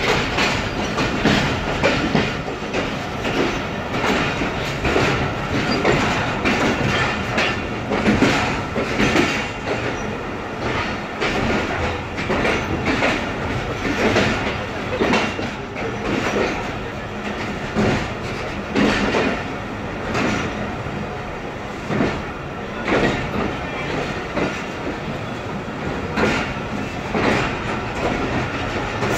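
Passenger train coaches rolling at low speed on the rails, the wheels clattering over rail joints and points in an uneven run of clacks over a steady running rumble.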